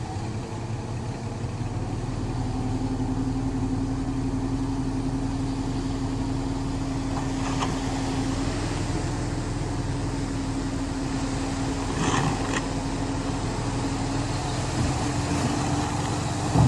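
Engine of earthmoving machinery running steadily with a held, even tone, with a few short knocks or rattles about halfway through and a louder one at the end.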